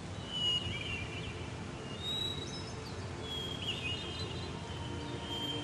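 Birds calling outdoors: several short, slurred whistles at intervals, over a steady low background noise.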